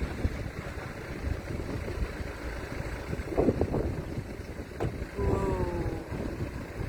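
Wind blowing across the microphone, a steady low rumble, with a few short pitched sounds about halfway through and a brief falling call about five seconds in.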